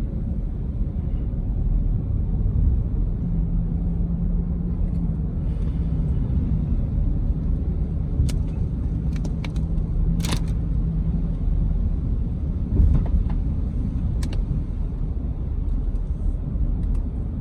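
A car driving at steady speed, heard from inside the cabin: a continuous low rumble of road and engine noise with a faint steady hum, and a few short clicks or knocks.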